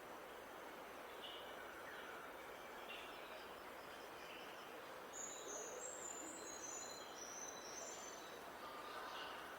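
Wild songbirds singing over a steady hiss of outdoor background noise: scattered short chirps, then about five seconds in a quick run of brief, high notes lasting about three seconds.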